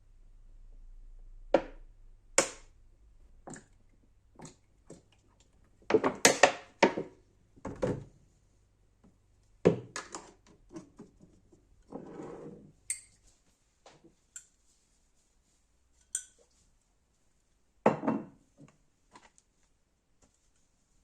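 Household objects being handled and set down on hard surfaces: a series of separate knocks and clinks, a busier clatter about six seconds in, a short scraping rustle around twelve seconds, and another clatter near eighteen seconds.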